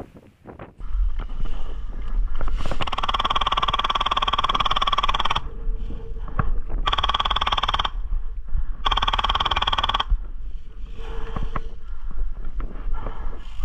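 Airsoft electric gun firing three full-auto bursts: a long burst of about two and a half seconds, then two shorter bursts of about a second each, each cutting off sharply. Wind rumbles on the microphone throughout.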